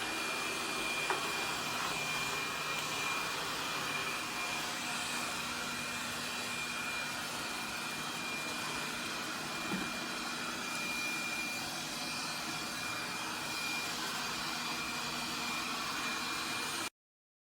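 Laresar robot vacuum's suction motor running steadily, a rushing noise with a thin high whine, cutting off suddenly near the end.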